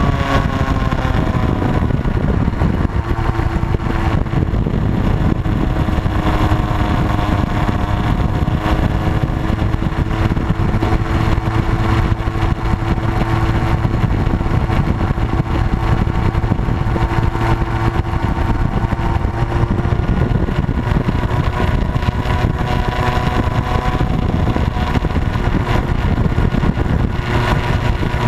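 Motorcycle engine running under way over a steady loud rush of noise. Its pitch eases down slightly in the first seconds, holds, then climbs gently again later on.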